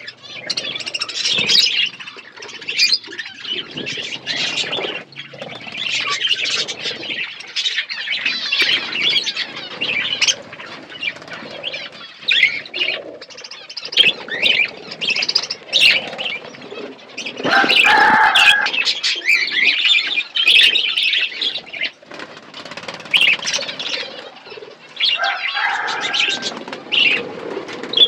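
Budgerigars chattering: a continuous, busy stream of quick, irregular chirps and warbles.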